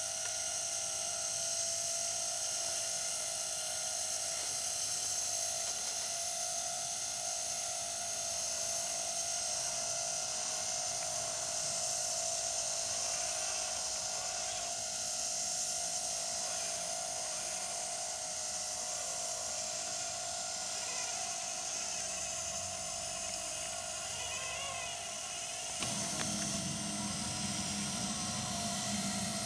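Small electric motors and gearboxes of a 1:16 RC model combine harvester, a converted Bruder Claas Lexion, whining steadily. About 26 seconds in a second, lower hum joins with a small rise in level.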